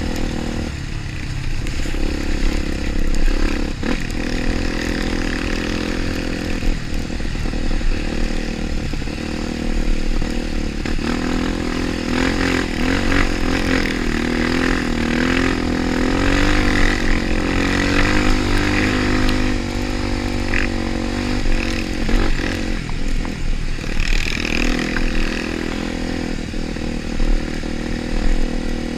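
Trail motorcycle engine running and being revved, its pitch rising and falling, most strongly through the middle.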